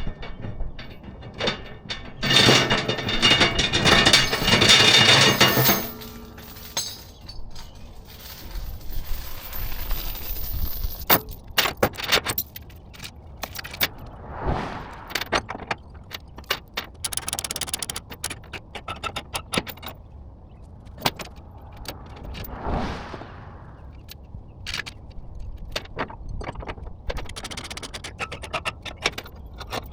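Metal jangling, clinking and knocking, with a louder rush of noise for a few seconds near the start and two brief swells later.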